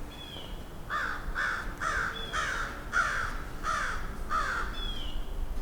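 A bird giving a run of seven harsh calls, about half a second apart, with a thin down-slurred whistle sounding three times around them.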